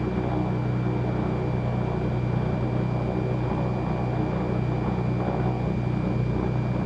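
Twin piston engines of a Cessna 310Q running steadily at low power, heard inside the cabin through the intercom as an even drone with a thin, steady high whine over it.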